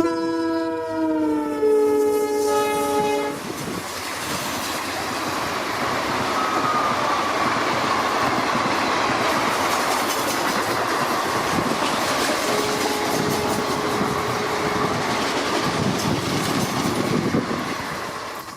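Multi-tone horn of twin WDP4D diesel locomotives sounding for about three and a half seconds and dropping in pitch about a second in as they pass, followed by the train rolling past steadily until it fades near the end.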